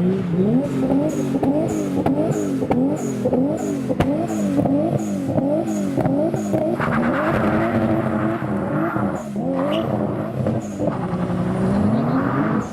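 Supercar engine revved in quick repeated throttle blips, its pitch rising and falling about twice a second, with a longer rise near the end.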